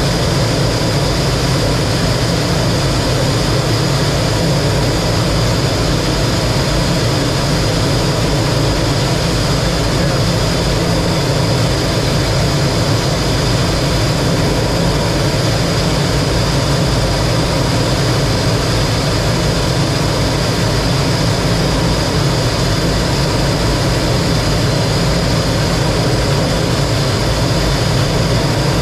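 Lockheed T-33 jet trainer in flight: its Allison J33 turbojet and the rushing air make a loud, steady roar with a thin, constant high whine above it.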